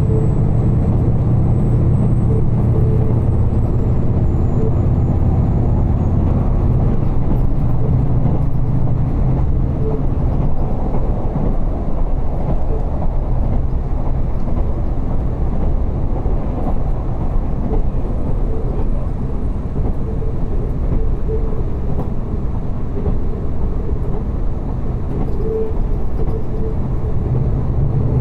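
Diesel railcar running along the line, heard from inside the passenger cabin: a steady low engine and running rumble. The low engine drone eases off after about eight seconds.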